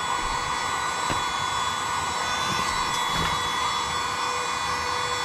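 A small electric blower-type motor running steadily, a rush of air with a steady whine on top, cutting off abruptly just after the end.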